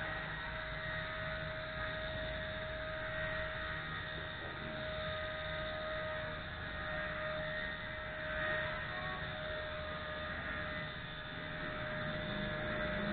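WLtoys V930 brushless RC helicopter hovering: a steady whine from its brushless motor and rotor that holds at one pitch.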